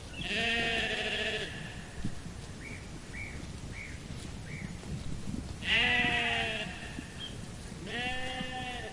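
Sheep bleating three times, each bleat about a second long, with wavering pitch.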